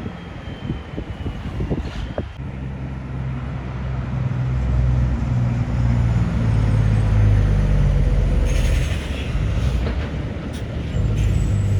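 Heavy truck's diesel engine driving past, its deep drone building about a third of the way in, loudest around the middle, then easing off.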